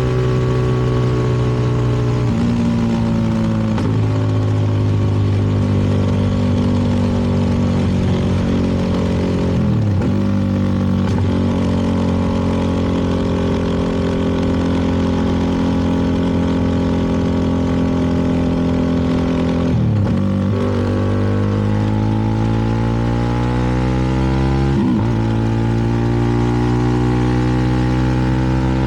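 Single-cylinder engine of a CFMoto 300NK motorcycle running under way at a steady pitch. The note dips sharply and recovers about ten seconds in and again around twenty seconds, then climbs steadily for a few seconds before dropping again near twenty-five seconds, the pattern of throttle and gear changes. Road and wind noise runs underneath.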